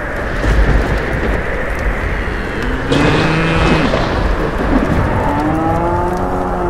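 Steady heavy rain with a low rumble of thunder, and a cow mooing twice: a short moo about midway and a longer one near the end.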